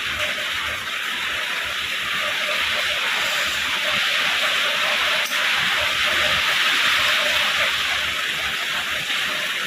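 Steady rain falling, an even dense hiss, with a single short click about five seconds in.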